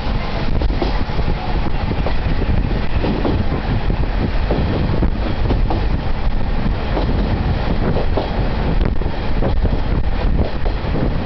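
Steady running noise of a diesel railcar heard from inside the carriage: the engine drone and the rumble of wheels on the rails, with a few light ticks from the track.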